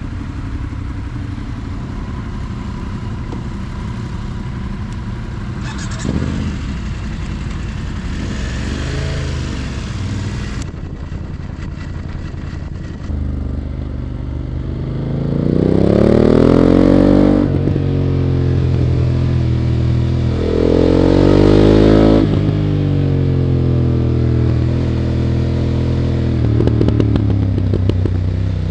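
BMW F 900 GS parallel-twin engine heard from an onboard camera. It runs steadily at first, then revs up hard twice in the second half, its pitch climbing and then dropping sharply at each gear change or throttle lift.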